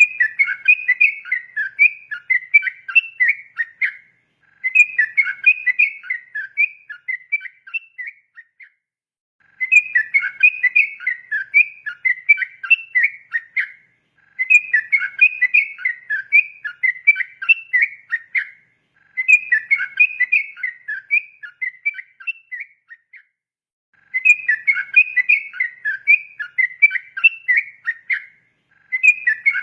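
Yellow-vented bulbul (trucukan) singing its long, rapid song: bouts of quick, chattering whistled notes about four seconds long, six in all, with short pauses between.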